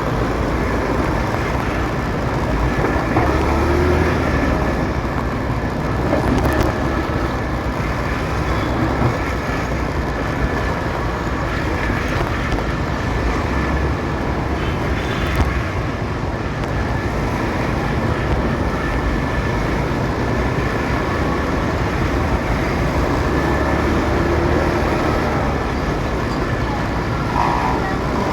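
A motorcycle riding in city traffic: steady engine and road noise with heavy low rumble, and no pause for the whole stretch.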